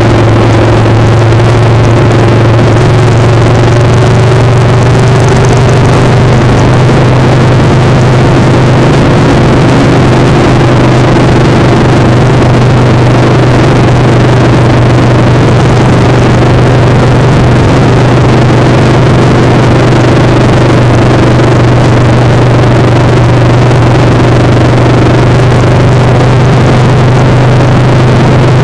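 Motorcycle engine running at a steady, nearly unchanging speed, with heavy wind noise on the microphone. Both are very loud.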